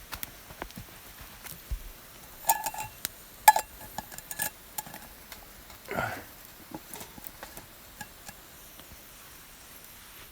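Scattered light clinks and taps of tableware and utensils during a meal, with two brighter ringing clinks about a second apart early on, and a brief soft sound about halfway through.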